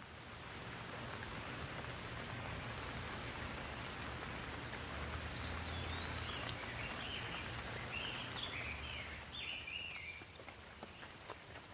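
Steady rainfall, with a bird chirping a quick run of short notes in the middle.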